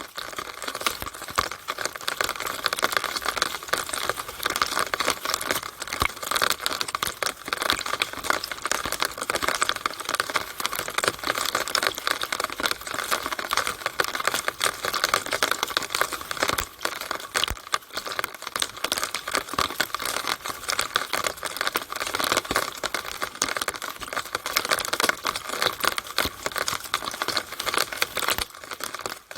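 Rainwater pouring through a drainpipe (downspout) in the rain: a steady, dense crackle of many small drips and splashes, with a brief lull near the end.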